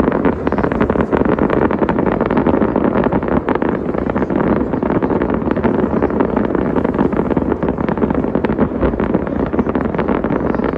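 Fireworks display at full intensity: many rapid bangs and crackles running together into one continuous loud barrage.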